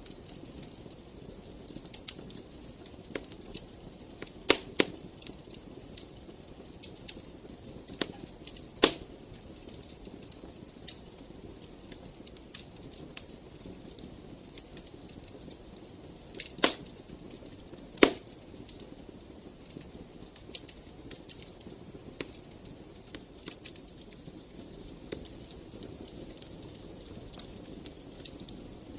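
Wood fire in a fireplace crackling, with irregular sharp pops over a steady low rustle of flames. Two of the loudest pops come about a second and a half apart, a little past the middle.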